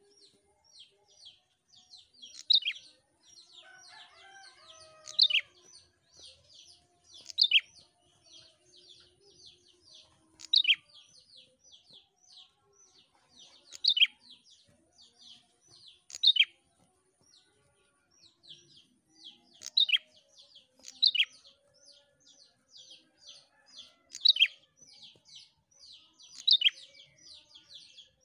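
A prenjak singing persistently: a rapid, unbroken run of short high chirps, several a second, with a louder, sharper call every two to three seconds.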